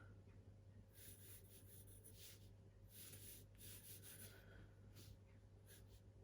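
Pencil sketching faintly on smooth hot-pressed watercolour paper: a series of short, quiet scratching strokes.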